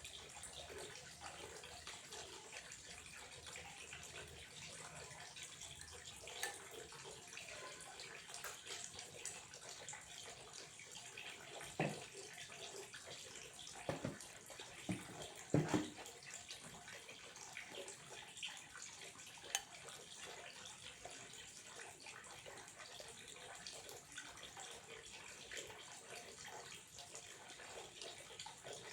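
Water running steadily, a faint even trickle, with a few louder drops or splashes in the middle.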